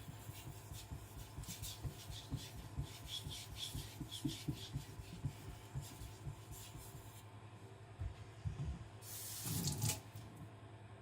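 A kitchen knife's edge being stroked back and forth on a Kitayama 4000 whetstone under light pressure, a quick series of scraping strokes. Near the end comes one louder scrape. The strokes are working the edge on a fast-cutting stone that soon raises a burr.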